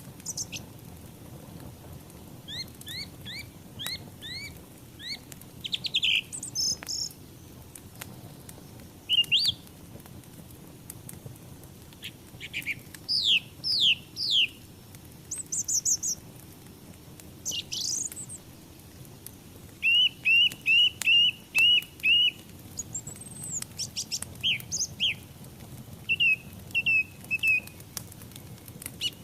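Birds chirping and calling, with short sweeping notes scattered throughout and a quick run of about seven chirps a little past the middle, the loudest part. Underneath runs a steady low rush with scattered small clicks, fitting the crackle of a burning wood fire.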